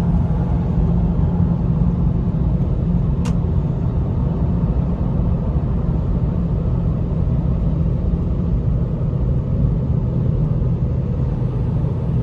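Inside the cabin of a Lexus GS430 cruising at highway speed: a steady low rumble of road and engine noise with a constant low hum. There is one brief click about three seconds in.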